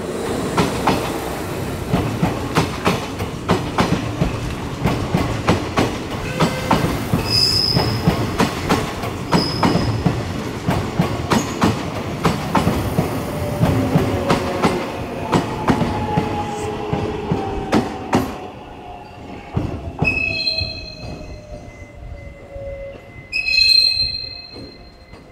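Kintetsu electric train running through the station, its wheels clacking rapidly over rail joints and squealing briefly now and then. In the second half the clacking thins out and the motor whine falls steadily in pitch as the train slows.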